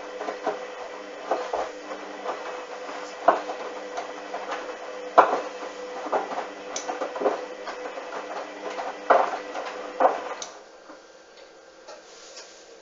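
Hoover front-loading washing machine tumbling a very sudsy wash: a steady motor whine with irregular thuds and knocks from the turning drum and wet laundry. The motor stops about ten seconds in and the sound drops to a quiet hum.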